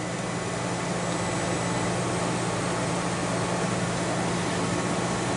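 Portable air conditioner running: a steady, even rushing noise with a constant low hum underneath.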